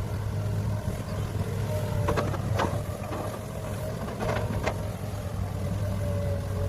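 Cat 6015B hydraulic mining excavator's diesel engine running steadily with a faint hydraulic whine, broken by a few sharp knocks, two about two seconds in and two more about four and a half seconds in.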